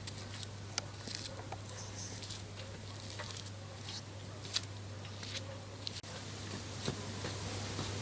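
Summer garden ambience: a soft wind hiss with scattered small ticks and patters at irregular moments, over a low steady hum.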